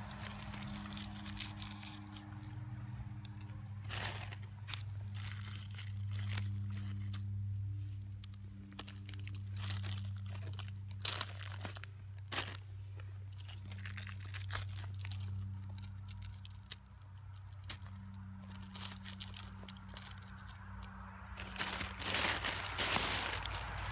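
Scattered crunching, crinkling and tearing handling noises over a steady low hum, the crackling thickest near the end.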